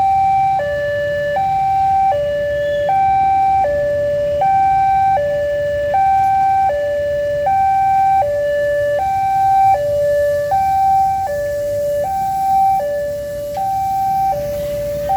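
Railway level-crossing warning alarm sounding: an electronic two-tone signal steadily alternating between a higher and a lower note, switching about every three-quarters of a second, over a low rumble of traffic.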